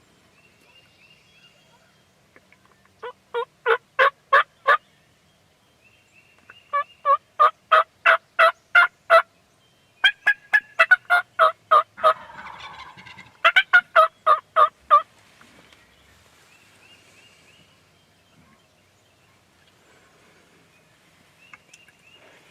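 A bird calling in three runs of short, evenly spaced notes, about four a second, the last run the longest.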